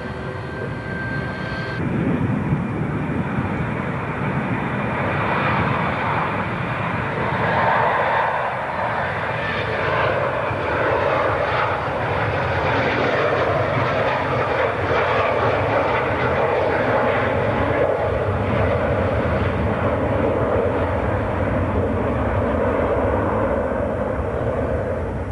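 Airliner engines at a runway: a steady high whine that stops about two seconds in, then a loud rushing engine noise that builds over the next few seconds and holds.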